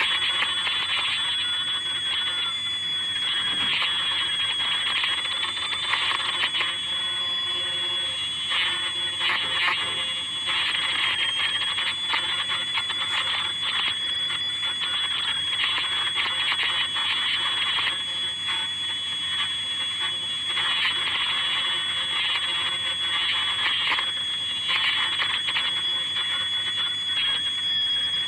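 Yifei ultrasonic machine running: a steady high-pitched whine, with a rough hissing noise that comes and goes.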